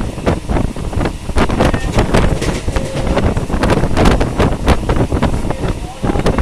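Ride noise inside a moving suburban electric local train: a heavy rumble with irregular knocks and clatter from the wheels on the track, and wind buffeting the microphone.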